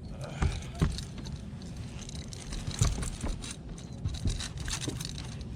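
Irregular knocks, clicks and scrapes of handling in a boat, with a few sharper knocks about half a second and three seconds in, over a steady low rumble.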